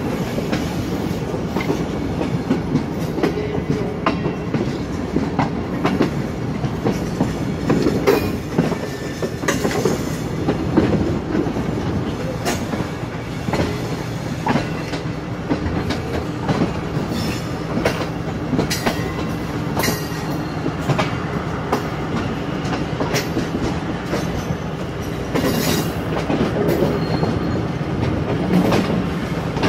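Passenger train coach running along the track, heard from an open window: a steady rumble of the wheels and running gear with irregular sharp clicks as the wheels pass over rail joints and points.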